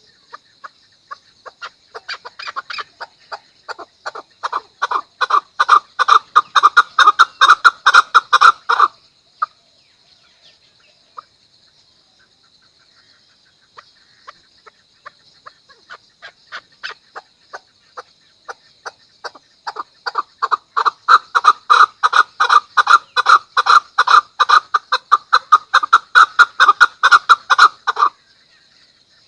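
Chukar partridge giving its rally call: a rapid run of clucking notes that speeds up and grows louder for several seconds, then stops. A second, longer run builds the same way and ends abruptly near the end. A faint steady high whine runs underneath.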